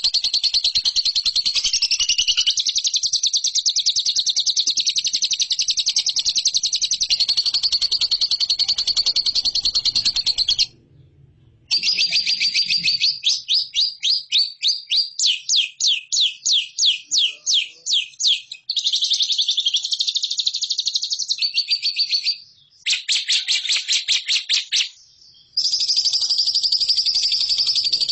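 Lovebird singing a long, rapid, high-pitched chattering trill, then strings of fast repeated chirps, broken by a few short pauses.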